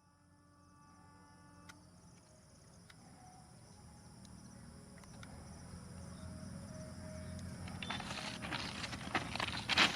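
Train approaching at speed: a low rumble that grows steadily louder, over the steady high chirring of insects, with loud rough rattling noise setting in near the end.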